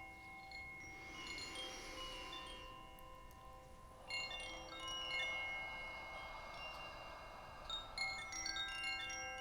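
Quiet wind chimes: many high, clear struck tones starting one after another and ringing on, overlapping, with a soft hiss swelling and fading in the first few seconds.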